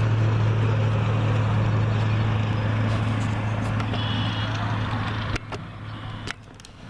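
Electric drive motor of an RC model tugboat running with a steady hum. It cuts off with a click about five seconds in, followed by a few sharp handling clicks.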